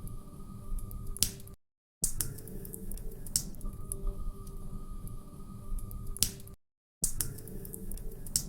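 Wood fire crackling in a fireplace, with irregular sharp pops and snaps over a low rumble of burning. The sound cuts out to silence twice, for under half a second each, about a second and a half in and again near six and a half seconds.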